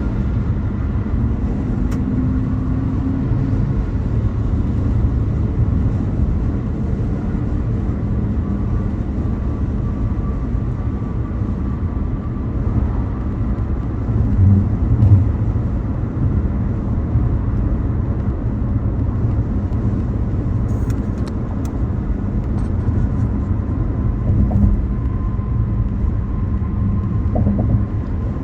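A car driving steadily, with continuous low road and engine noise.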